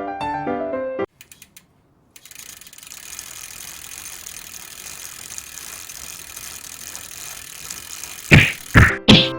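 Bicycle freewheel hub ticking steadily as the bike coasts. Piano music comes before it, and three or four loud knocks come near the end.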